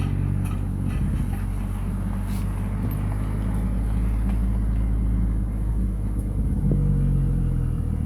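Vehicle engine and road noise heard from inside the cab while driving slowly: a steady low rumble.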